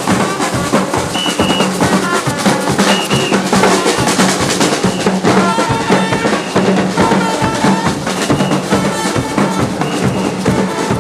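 Carnival percussion band playing: many drums beating a fast, dense rhythm, with short held notes from other instruments repeating over it.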